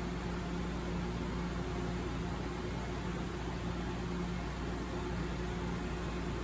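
Steady mechanical hum and rumble of a railway station platform, with a constant low drone.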